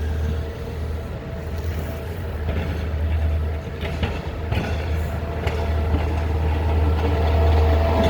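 Sidewalk snowplow's engine running close by: a steady low drone with a fainter steady whine above it, growing slowly louder toward the end as the machine passes.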